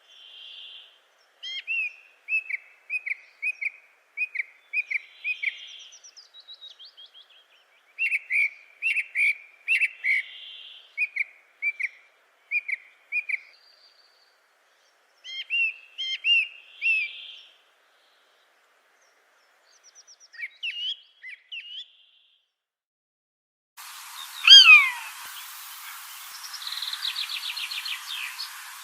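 Songbirds calling: rapid series of short, high chirps with softer fuzzy notes in between, then pauses. Near the end a background hiss cuts in, with a loud falling whistle and a brief buzzy rattle.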